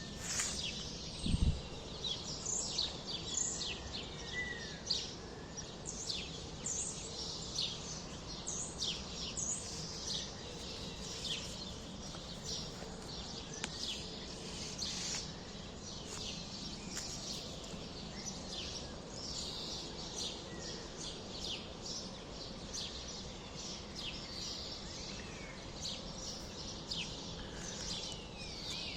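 Many small birds chirping in overlapping short, high, quick notes, busiest in the first half and thinning later, over steady background noise. A single low thump about a second in.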